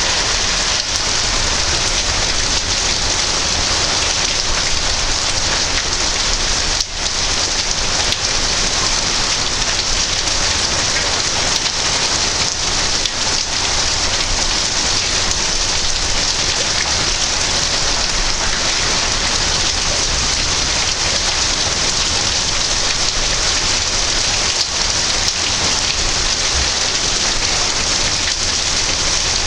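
Heavy rain falling steadily in a thunderstorm, a continuous loud hiss.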